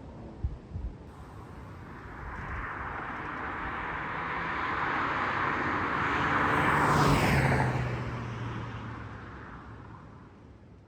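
A vehicle passing by, growing steadily louder over several seconds, dropping in pitch as it passes its loudest point, then fading away. A few short knocks in the first second.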